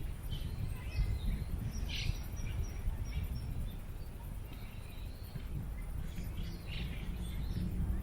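Birds chirping in short, scattered calls over a steady low wind rumble on the microphone.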